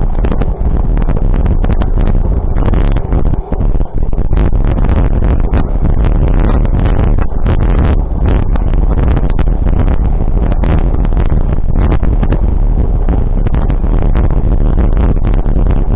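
A motor vehicle running, with a loud, steady low rumble that flickers constantly.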